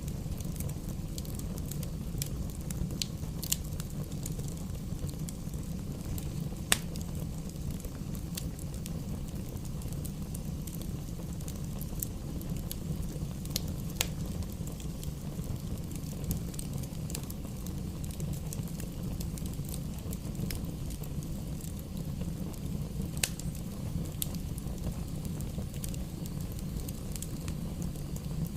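Wood fire burning in a fireplace: a steady low rumble with scattered sharp crackles and pops from the burning logs, the loudest pop about a quarter of the way in.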